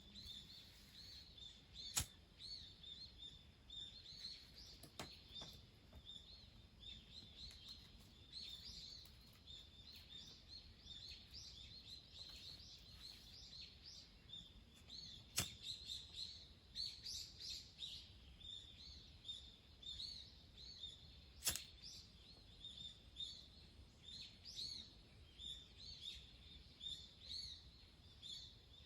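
Birds chirping steadily in quick, short repeated notes, faint, with three sharp clicks spread through.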